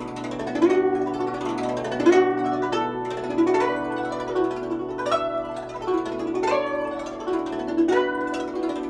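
Guzheng played in a slow passage: a plucked note or double-string note about every one and a half seconds, each ringing on, with pitch bends from the left hand pressing the strings.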